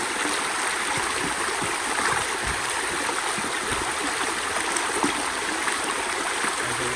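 Flowing stream water rushing steadily over rocks.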